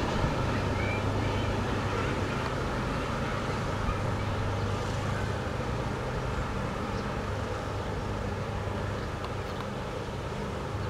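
Double-stack container freight train rolling away: a steady rumble of wheels on rail with a low engine hum, slowly fading as the last cars recede.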